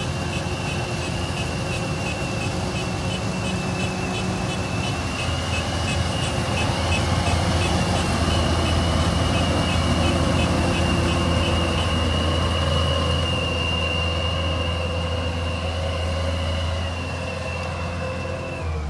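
An engine running steadily under a high-pitched electronic beeping. The beeps come fast at first, merge into one continuous tone, and cut off near the end.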